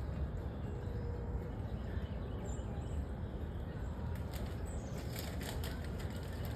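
Steady low outdoor rumble with a few faint, short, high bird chirps about two and a half seconds in and again near five seconds, and some light clicking after the four-second mark.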